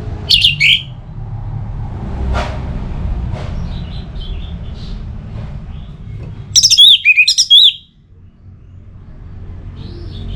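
Orange-headed thrush singing: a short burst of quick, high whistled notes just after the start, and a longer run of rapid looping whistled notes about six and a half seconds in, over a low steady rumble.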